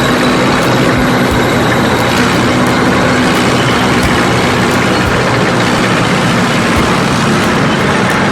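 Heavy construction-vehicle engine running steadily with a low, even hum, a cartoon engine sound effect.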